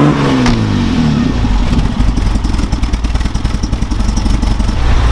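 Volvo TGB off-road vehicle's petrol engine revving, the pitch falling back over the first second or so, then settling into a steady idle. The engine is running again after an ignition coil change.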